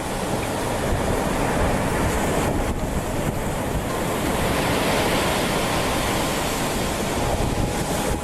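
Tsunami floodwater rushing in a loud, steady wash of noise, with wind buffeting the microphone.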